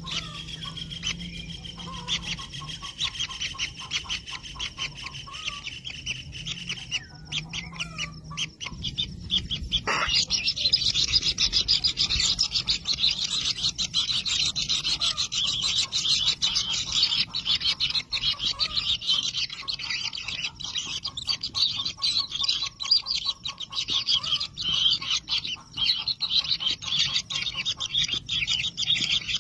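Kingfisher nestlings calling inside their nest burrow: a dense, fast, high-pitched chatter that becomes louder and more continuous about ten seconds in.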